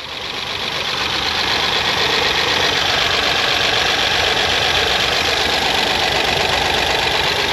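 2010 Honda Accord engine idling rough with a steady, rapid mechanical clatter, fading in over the first second or so. The engine is misfiring and clacking, in the mechanic's words.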